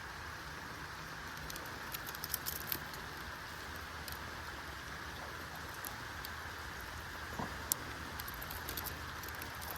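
Steady rain with scattered sharp ticks of drops, clustered about two to three seconds in and again near the end.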